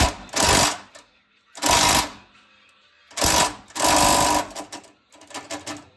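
Power impact wrench rattling in repeated bursts of about half a second, with a run of short quick bursts near the end, as it works bolts on the truck.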